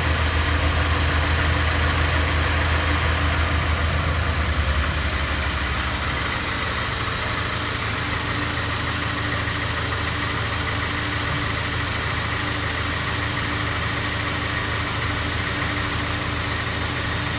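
Honda Integra Type R's engine running, with a strong low rumble that fades away about five seconds in, leaving a steady even engine-and-road noise.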